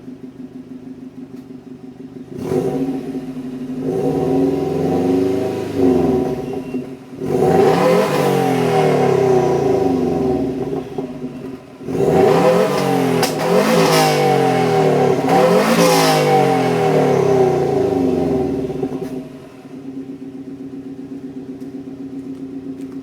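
Car engine through a Blitz Nur-Spec R aftermarket exhaust: idling, then revved hard in three spells of quick rising-and-falling blips, and settling back to idle near the end.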